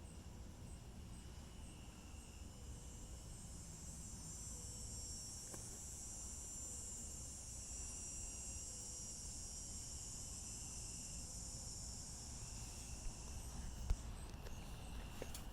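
A steady high-pitched insect chorus, swelling in the middle and easing off again, over a low rumble, with two small knocks near the end.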